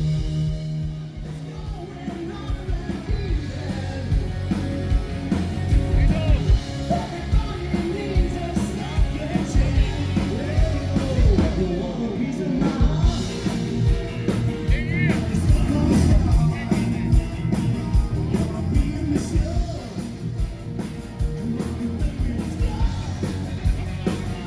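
Live rock band playing amplified music, with a lead vocal singing over guitar, bass and drums.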